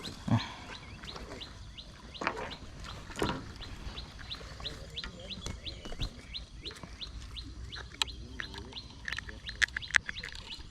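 A bird calling over and over in short, falling chirps, about three a second, with a few scattered knocks and handling noises.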